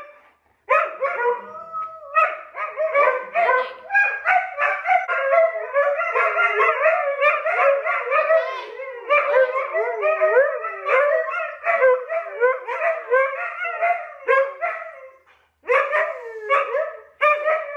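Huskies howling, yowling and yipping excitedly in long, wavering, near-continuous calls that overlap, with short breaks just after the start and about 15 seconds in.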